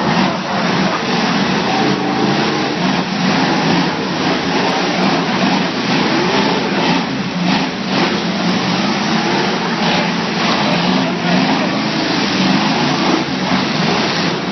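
Several derby trucks' engines running and revving together, their pitches wavering up and down, with a few short sharp bangs.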